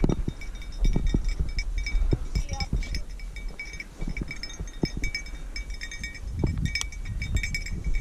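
A hunting dog's collar bell jingling continually as the dog moves about, over low thumps and wind rumble.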